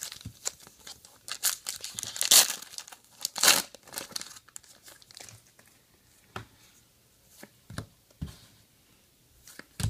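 Trading card pack wrapper being torn open and crinkled, with two louder rips about two and a half and three and a half seconds in. After that come only a few light clicks as the cards are handled.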